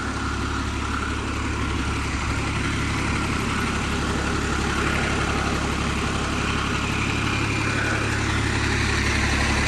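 Heavy truck engine running, a steady low rumble that grows slowly louder as the truck pulls up.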